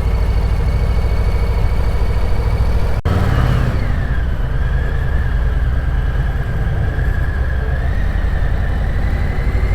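Harley-Davidson Street Bob's V-twin engine running through a Two Brothers 2-into-1 exhaust as the bike is ridden off, with a momentary break about three seconds in.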